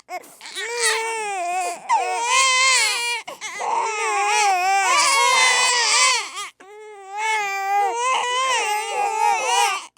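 Infant crying hard: long, high, wavering wails broken by short catches of breath.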